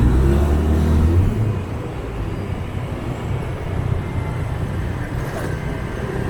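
Street traffic heard from a moving motorbike: a steady low engine drone that is loudest for the first second or so, then an even low rumble of traffic.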